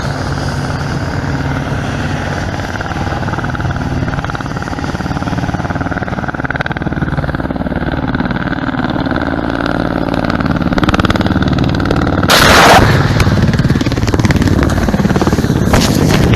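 Ka-52 attack helicopter's rotors beating steadily and growing louder. About twelve seconds in, a sudden loud rushing burst of weapons fire, then a quick run of cracks near the end.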